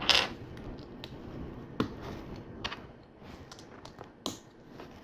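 Plastic LEGO bricks clicking as they are handled and pressed into place: about half a dozen sharp clicks at irregular intervals, roughly a second apart, the first one a little longer and rougher.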